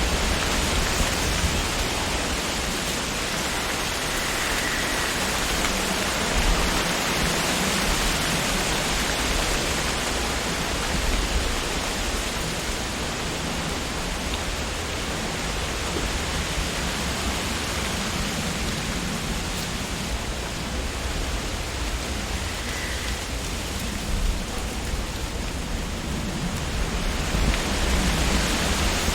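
Wind rustling through tree leaves, a dense, steady hiss that eases somewhat in the middle and picks up again near the end.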